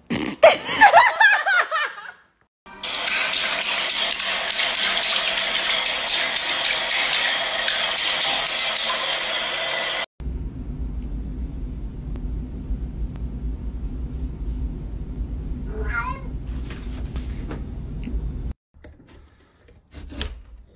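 A cat meowing in short calls during the first two seconds. Then comes a steady hissing noise for about seven seconds, and then a low rumbling noise with one more brief meow about sixteen seconds in.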